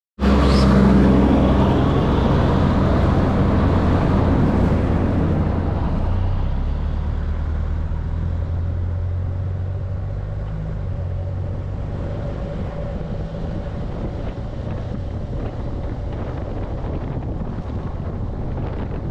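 A vehicle driving along at road speed: a steady engine drone with road noise and wind buffeting the microphone. The engine note shifts about six seconds in and then runs a little quieter.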